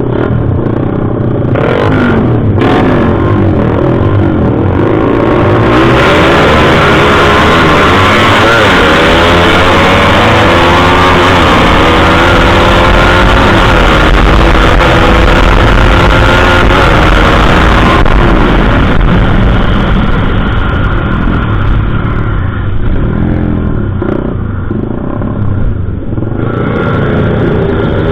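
Motorcycle engine being revved up and down repeatedly while it is tuned, its pitch rising and falling. The revs are highest and loudest through the middle of the stretch, then ease off.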